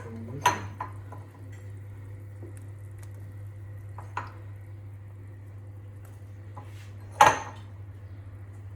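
Dishes and utensils clinking now and then: a knock about half a second in, a lighter clink around four seconds, and a louder clatter about seven seconds in, over a steady low hum.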